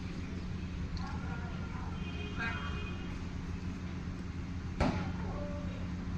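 Steady low mechanical hum with faint voices in the background, and one sharp click a little before the end.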